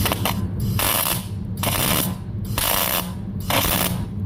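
MIG welder laying short tack welds: about five half-second bursts of arc crackle, one after another, over a steady low hum.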